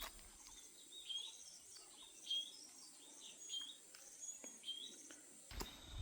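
A bird calling repeatedly: short, faint chirps hooking upward, about one every half second. Footsteps start near the end.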